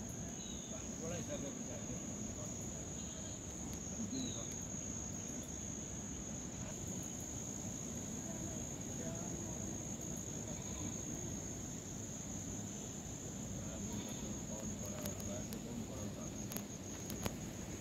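Insects trilling steadily at one high pitch, with a few faint short chirps and a couple of sharp clicks near the end.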